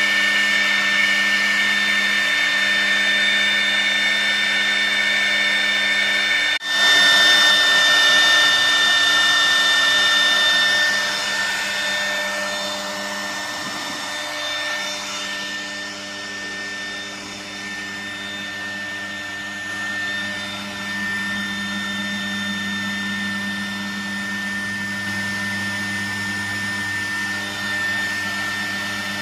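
CNC router's HSD spindle running with a steady high whine while its bit engraves MDF, the cutting noise mixed in. A brief dropout comes about six and a half seconds in, and the sound settles quieter about twelve seconds in.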